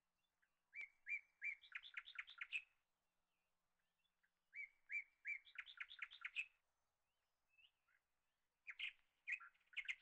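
A songbird singing three song phrases, each about two seconds long: a few separate notes, then a quicker run of higher notes. The gaps between phrases are near silent.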